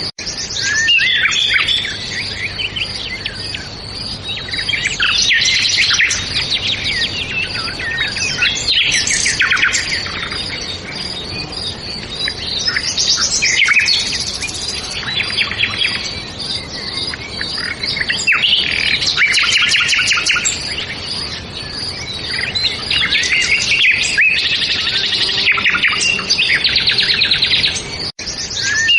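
A chorus of several songbirds singing, with overlapping chirps and rapid trilled phrases one after another. A brief dropout in the sound comes near the end.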